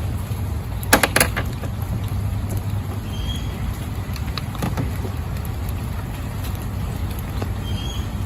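Steady low rumble like a vehicle running, with a quick run of three sharp clicks about a second in and a few fainter taps near the middle.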